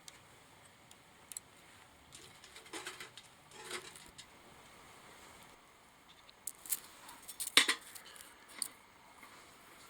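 Sporadic small clicks, light clatter and rustling, as of things being handled at a wood-burning can stove. The loudest come about three and a half seconds in and as a sharp cluster of clicks about seven and a half seconds in.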